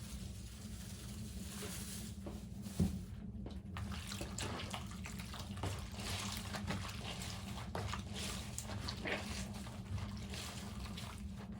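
Water trickling and splashing in irregular small spurts, with one sharp knock about three seconds in.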